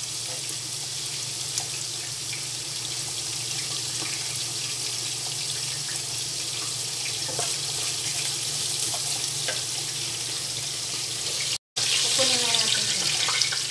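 Julienned ginger sizzling in hot oil in a frying pan, a steady hiss, being fried until it turns golden yellow. The sound breaks off for an instant near the end.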